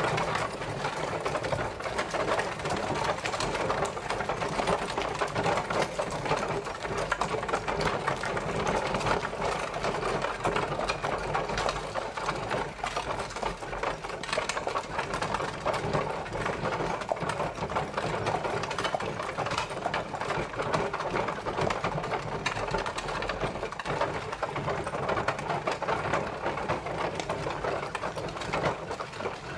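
Horse-drawn carriage on the move: a steady, dense clatter and rattle that keeps on without a break.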